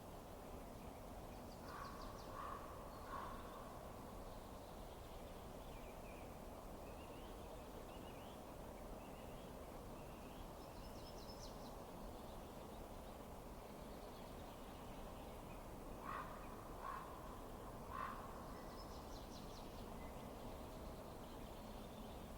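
A bird calling three short times about two seconds in, and three times again around sixteen seconds, with fainter high chirps between, over a faint steady hiss.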